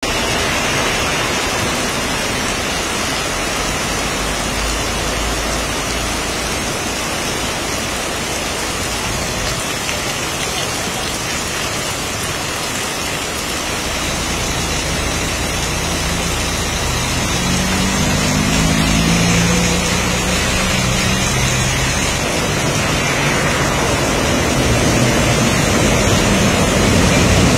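Heavy monsoon rain pouring steadily onto a street, a dense, even hiss. About two-thirds of the way through, a low droning tone joins in for a few seconds.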